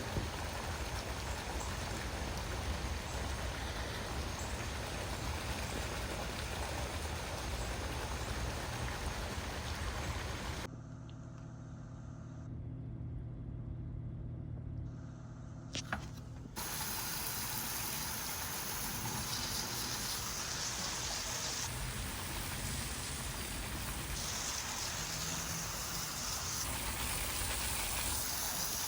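Floodwater rushing steadily. About eleven seconds in it drops for several seconds to a quieter low hum with one sharp click, then the rushing comes back.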